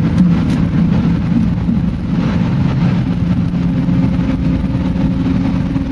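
Car engine running at a steady drone with low road rumble, heard from inside a moving car.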